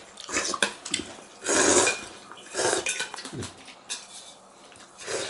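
People eating noodles: short bursts of slurping, the loudest about a second and a half in, with chopsticks clicking against the bowl.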